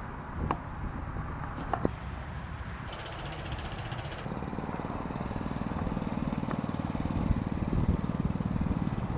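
Small mini bike engine idling with a rapid, even low chug that gets louder in the second half. Two sharp clicks come near the start, and a brief high hiss lasts about a second around three seconds in.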